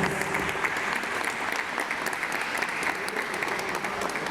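Audience applauding steadily, a dense patter of hand claps.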